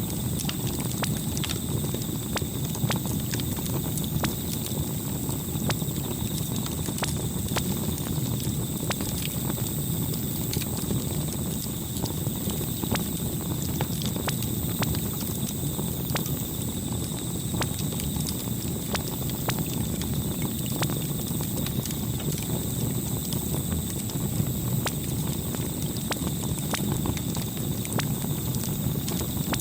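Campfire burning: irregular crackles and pops over a steady low rumble of flames, with a faint steady high-pitched tone underneath.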